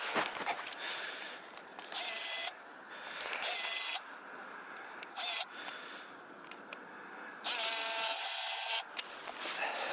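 A small electric motor whining in four short spurts that start and stop abruptly, the last and longest one the loudest, over faint outdoor background noise.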